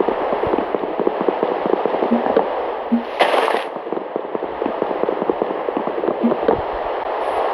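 Heavy rain falling, a dense, irregular crackle of drops hitting surfaces, with a brief louder hiss about three seconds in.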